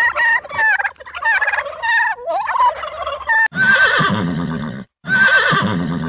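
Wild turkey toms gobbling, a run of rapid warbling calls, then after a sudden cut a horse whinnying twice in long calls.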